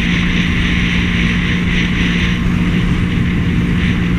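Jet ski engine running at a steady pitch while under way, with wind noise over it.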